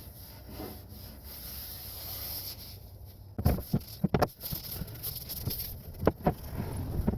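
Faint rubbing, then a run of short, sharp knocks and bumps in the second half, about six in all, like hard objects being handled and set down.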